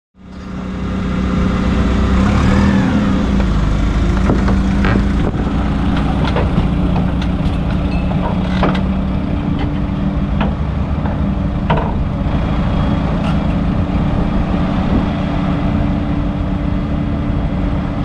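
Straight truck's engine running steadily, with scattered sharp clicks and knocks over it.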